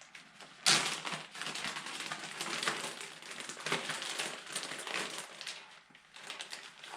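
Plastic bag being handled and crinkled, with a sharp crackle about a second in, as it is wrapped over disconnected hydraulic line ends to keep out contamination.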